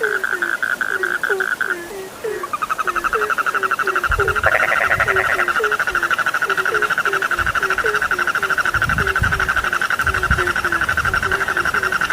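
A chorus of frogs calling. A rapid, continuous pulsed trill drops out briefly about two seconds in and then carries on. Under it, short low croaks repeat about twice a second, with a little low rumbling now and then.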